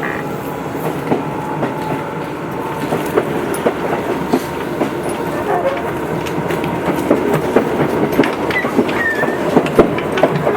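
Onboard running sound of a Tobu 8000 series electric train under way, with wheels clicking and clattering over the rail joints. The running noise grows a little louder through the clip.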